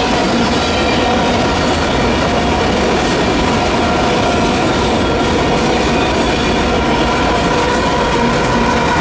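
Freight cars of a passing Union Pacific manifest train rolling over the crossing: a loud, steady rumble and clatter of wheels on rail. Several steady high-pitched tones sit over it.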